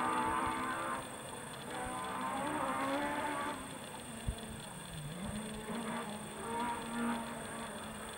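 Ford Escort Mk 2 rally car's engine heard in the distance, holding a steady pitched note that fades, then dips and climbs again about five seconds in as the driver lifts and gets back on the throttle.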